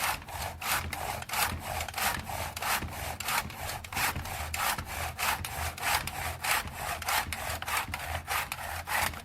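Handsaw cutting through wood in quick, even back-and-forth strokes, about three a second, stopping near the end.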